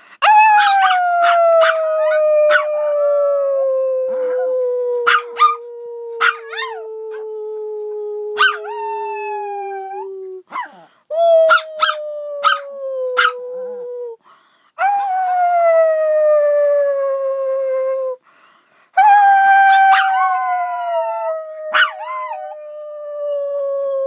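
A pet dog howling: four long howls that each slide slowly down in pitch, the first lasting about ten seconds and the last running on past the end. Short, sharp yips and barks break in between and over the howls.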